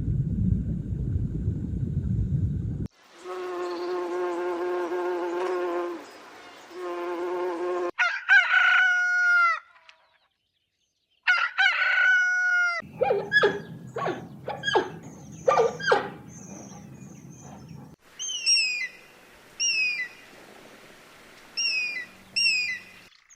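A run of chicken sounds: after a low growl at the start, a rooster crows twice, hens cluck in quick bursts, then chicks give a string of short, high falling peeps.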